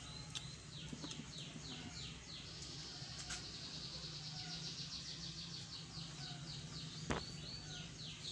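A bird calling over and over: a series of high, falling whistled notes, spaced at first, then running together into a fast trill through the middle before slowing to separate notes again near the end.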